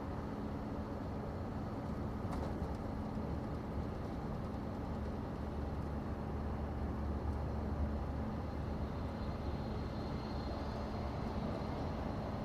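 Scania truck on the move, heard from inside the cab: steady engine and road noise with a low constant hum, the rumble swelling slightly midway.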